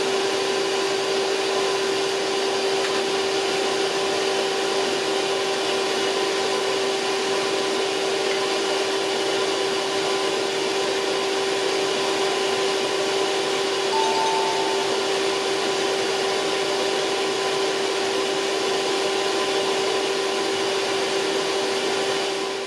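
An electric motor running steadily without load, a constant whirring hum with a whine held at one pitch. A short faint higher tone briefly joins it about two-thirds of the way through.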